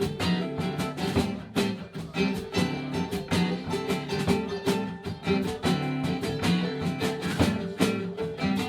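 A live band plays an instrumental passage with no singing: strummed guitar over a steady beat.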